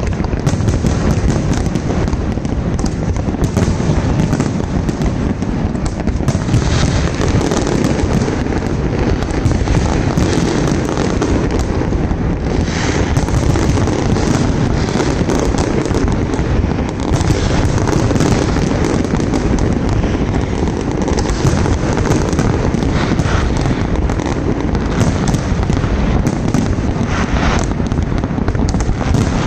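Fireworks display going off: a dense, continuous rumble of bursts, with a few sharper cracks standing out through it.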